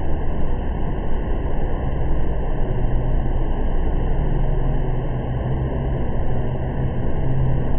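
Artificial waterfall: a steady, even rush of falling water, heaviest in the low end.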